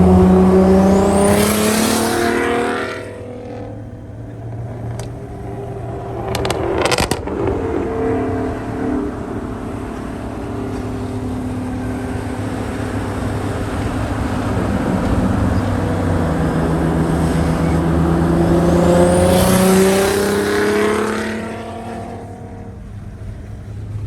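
Turbocharged car engine pulling hard under acceleration, its pitch climbing with a thin rising turbo whistle before it backs off about three seconds in. A quick cluster of sharp clicks follows a few seconds later, then a long steady pull that climbs again until it lets off near the end.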